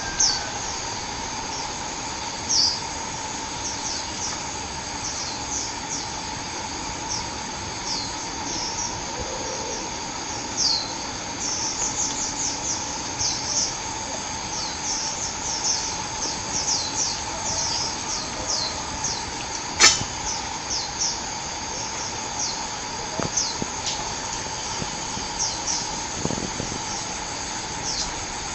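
Small forest bird giving many short, high, thin chirps that slur downward, repeated irregularly, sometimes in quick runs, over a steady insect-like hiss. A single sharp click about twenty seconds in is the loudest moment.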